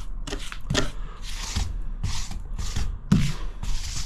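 Repeated scraping swishes of grout being worked across wall tiles, about two strokes a second, with a firmer knock about three seconds in.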